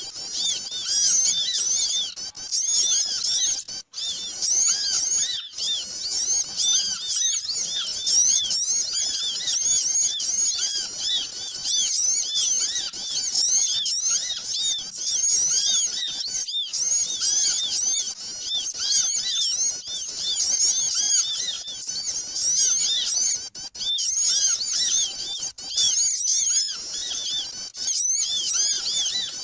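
Dense, noisy chorus of many small birds chirping rapidly and overlapping without pause. It is a lure call for trapping small birds.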